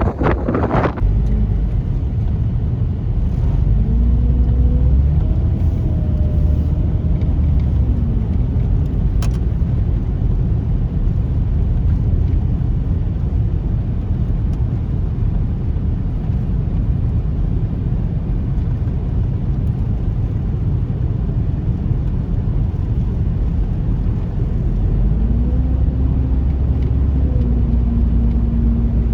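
Road vehicle driving, most likely their van: a steady low road rumble, with an engine hum that rises and falls in pitch a few seconds in and again near the end.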